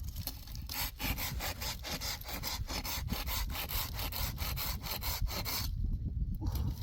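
A hand saw cutting through wood in quick, even back-and-forth strokes. The sawing starts about a second in and stops near the end.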